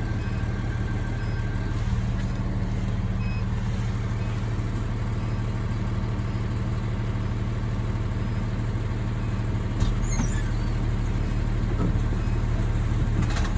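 Fire engine's diesel engine running steadily with an even low hum, with a couple of faint clicks near the end.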